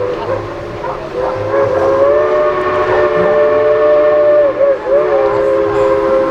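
A train horn sounding long, held blasts as a chord of several tones, broken by a short dip in pitch about three-quarters of the way through.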